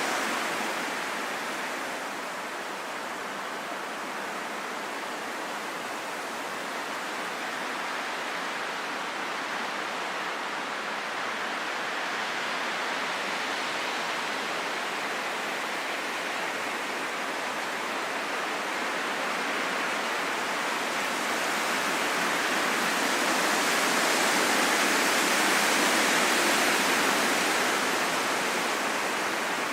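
Wind blowing in a steady rush that slowly swells into a stronger gust a little after three quarters of the way through, then eases slightly near the end.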